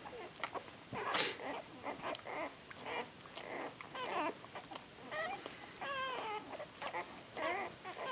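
Newborn puppies, eight days old, squeaking and crying over one another in many short, high, wavering cries.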